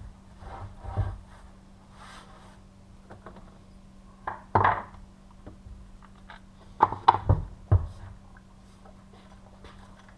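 Handling noises from a vintage Poulan 2000 chainsaw being turned over and inspected: a few scattered knocks and clunks, the loudest cluster about seven seconds in, over a faint steady hum.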